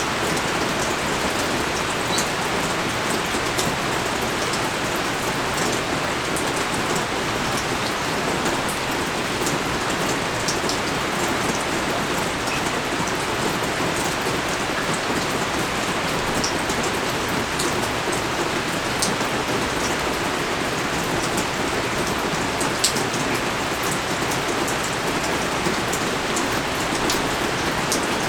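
Heavy rain pouring down steadily: a dense, even hiss with scattered sharp drop ticks.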